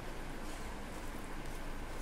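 Chewing a mouthful of vegetable pulao, with fingers squishing and gathering rice on a plate, over a steady hiss.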